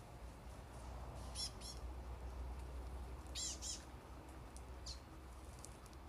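Common waxbill giving short high chirps: two quick pairs, then a single chirp near the end, over a faint low rumble.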